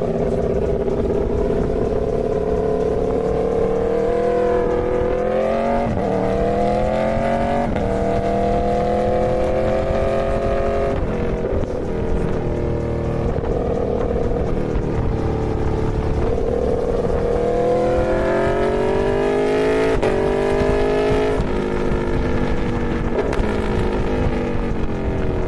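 Aprilia Tuono V4 motorcycle's V4 engine running hard, its pitch climbing several times and dropping sharply at each gear change.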